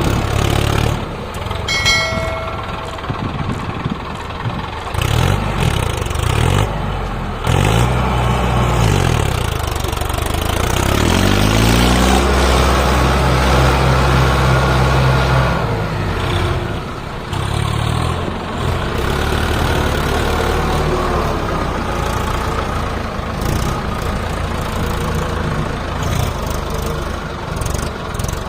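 Tractor diesel engine running and revving over and over, its note rising and falling and held high for a few seconds near the middle, as the tractor works in deep mud. A short high-pitched tone sounds about two seconds in.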